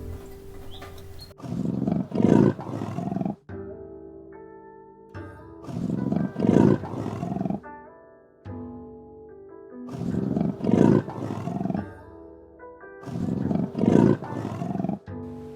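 A large animal roaring four times, each roar about two seconds long and about four seconds apart, over background music.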